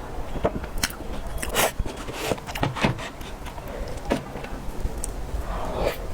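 Close-miked eating sounds of cake being handled and eaten: irregular clicks and taps with a few short crackly smears.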